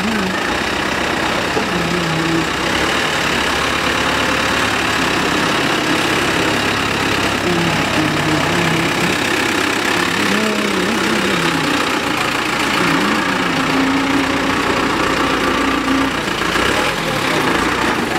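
Truck engine running steadily, a continuous low rumble, with faint voices wavering in the background.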